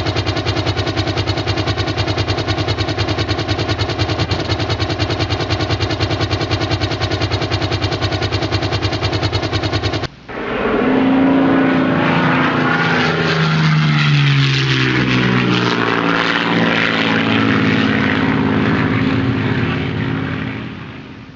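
Dubbed-in aircraft sound effects: a steady, fast-pulsing engine or rotor drone that cuts off suddenly about ten seconds in. It is replaced by a loud rushing aircraft sound with several tones sliding in pitch, which fades near the end.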